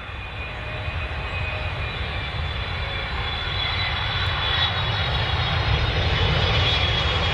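Airliner jet engines running with a low rumble and a steady high whine, growing steadily louder.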